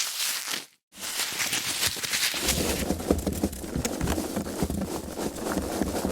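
Foam packaging being handled, crackling and rubbing. It cuts to a brief silence just under a second in, then goes on with a deeper rubbing added from about two and a half seconds.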